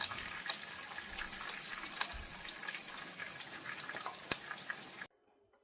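Fish frying in hot oil, a steady sizzle with scattered pops and crackles that cuts off abruptly near the end.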